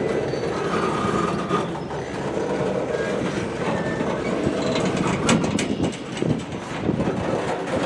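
Cars of a long freight train rolling past, steel wheels rumbling steadily on the rails, with two sharp metallic clanks about five seconds in.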